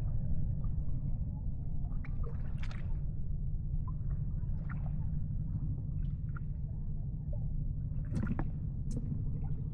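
Water lapping and gurgling, with a few small splashes over a steady low rumble.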